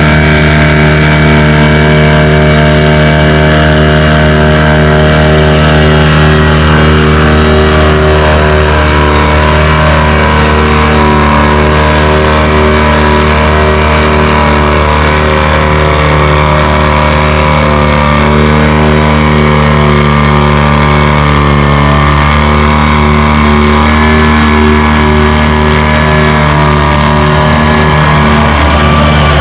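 John Deere 435 tractor's two-cylinder two-stroke Detroit Diesel pulling a weight sled under heavy load, running loud with a steady engine note.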